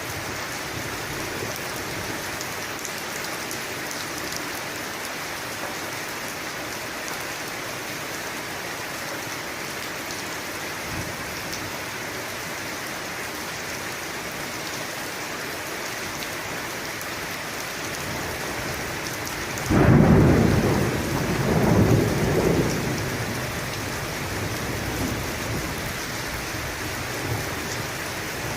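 Steady rain falling. About two-thirds of the way through, a sudden thunderclap breaks into rumbling thunder that swells a second time and fades away over several seconds.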